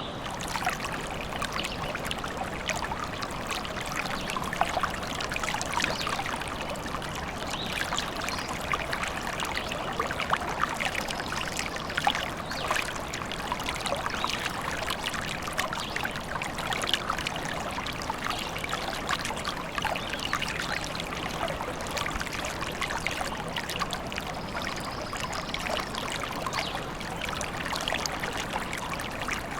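Small stream trickling and splashing over stones, a steady babble of running water.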